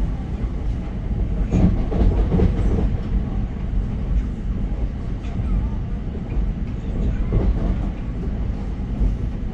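Electric commuter train running on the rails: a steady low rumble with a few clacks, the strongest about two seconds in.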